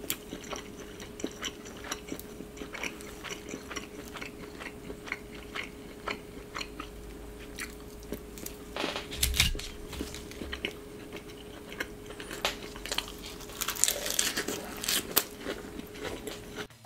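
Close-miked biting and chewing with crisp crunches of iceberg lettuce, loudest about nine seconds in and again around fourteen to fifteen seconds. A faint steady hum runs underneath.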